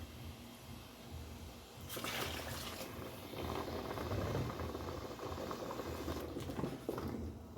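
Coconut milk being poured into a pot of thickened canjica. A steady liquid pour starts about two seconds in and runs for around five seconds.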